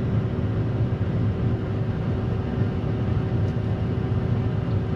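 Combine harvester running steadily: a low, even machine rumble with a faint steady whine above it.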